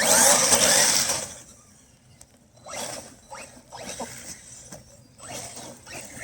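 Redcat Kaiju EXT electric RC monster truck's brushless motor whining, rising in pitch in several short bursts of throttle, after a loud rush of noise in the first second.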